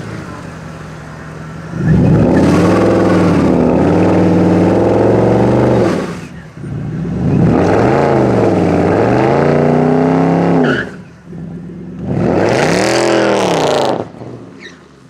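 Mercedes-AMG CLS63's V8 engine accelerating hard in three loud runs, starting about 2 s, 6.5 s and 12 s in, its pitch climbing and dropping within each run. Each run stops abruptly.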